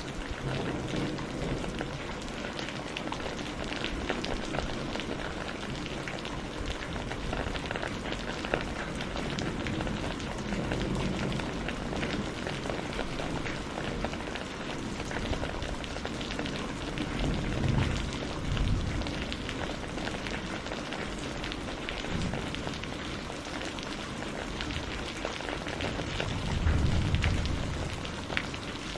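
Steady rain with a crackling wood fire, its small pops scattered throughout. Low rumbles of thunder swell up about two-thirds of the way in and again near the end.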